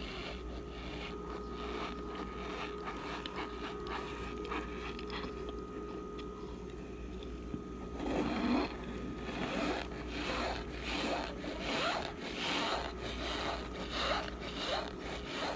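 Argo cornstarch chunks being bitten and chewed, squeaky and crunchy. Faint scraping at first; about eight seconds in comes a loud bite, then a run of crunches about two a second.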